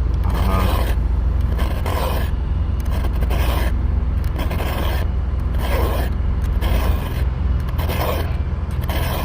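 Round chainsaw file rasping across a chain's cutter tooth in repeated strokes, about three every two seconds, deepening the gullet. A steady low rumble runs underneath.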